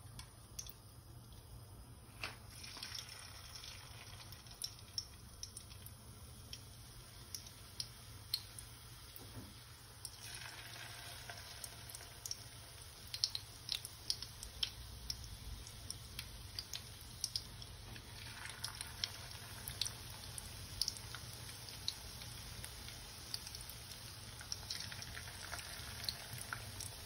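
Egg-battered chicken and potato skewers sizzling in hot oil in a frying pan: a steady sizzle with many sharp little crackles and pops. The sizzle thickens about ten seconds in and again about eighteen seconds in.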